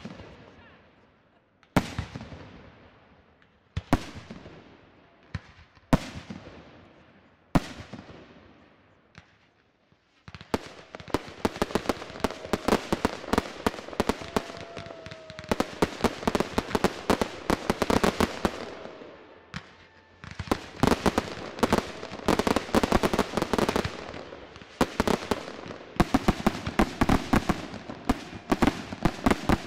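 Fireworks display: five single shell bursts about two seconds apart, each trailing off, then a dense barrage of rapid bangs and crackling that sets in about a third of the way through and goes on, with a short lull about two-thirds through.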